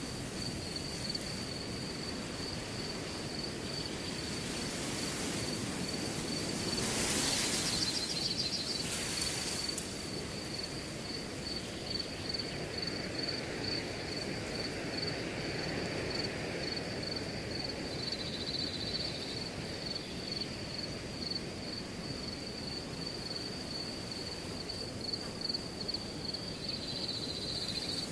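Wind blowing through a grass field with crickets chirping in a steady, rapid pulse. A stronger gust swells through the grass about seven seconds in and dies down a few seconds later.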